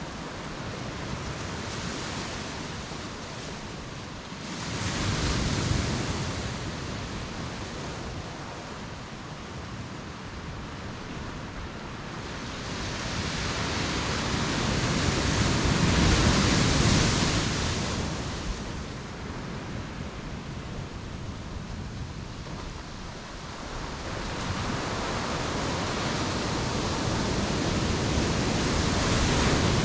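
Ocean waves breaking on the beach and washing back, in slow surges: a short swell about five seconds in, a longer, louder wave building to a peak around the middle, and another rising toward the end.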